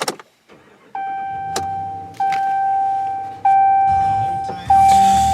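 A vehicle's warning chime sounds as a steady tone that restarts about every second and a quarter, four times. About four seconds in, the engine starts and runs under the chime, with a few clicks around it.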